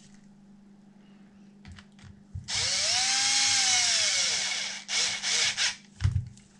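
Power drill run in one pull of about two seconds, its pitch rising and then winding down, followed by three short bursts.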